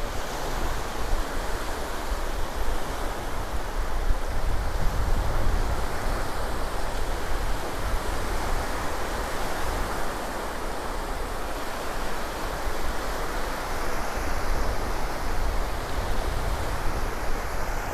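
Surf washing onto the beach in a steady rush that swells and eases, with wind rumbling on the microphone underneath.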